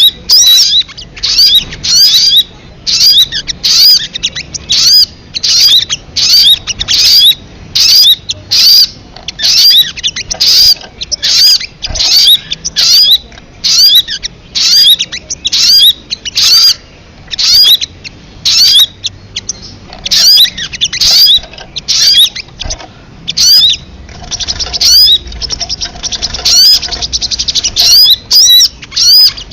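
Sogon bird calling: a long, unbroken series of sharp, high, arched call notes, about one to two a second, growing quicker and denser near the end. It is a bird-lure call recording.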